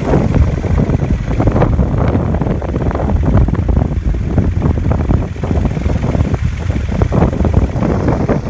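2009 Triumph Bonneville T100's 865 cc parallel-twin engine running through its exhaust at low revs, with wind buffeting the microphone.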